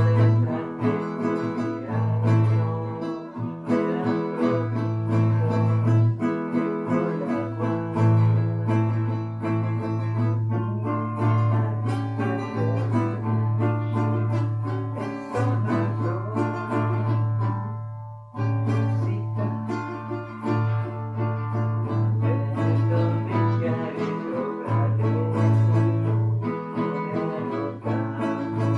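A guitar being played: a steady run of plucked notes over a repeating low bass note. It breaks off briefly about eighteen seconds in, then carries on.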